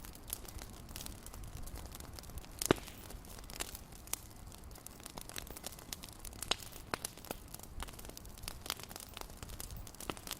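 Wood fire crackling in a fireplace: irregular snaps and pops over a low steady rumble, with one louder pop about two and a half seconds in.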